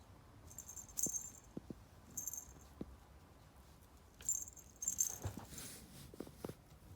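A small jingle bell shaking in four short bursts, with a few light soft thuds in between.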